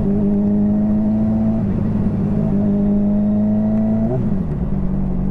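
Motorcycle engine heard while riding, pulling steadily with its pitch slowly rising, with short breaks about a second and a half and two and a half seconds in. About four seconds in the pitch drops and it settles to a lower, steady note as the rider eases off.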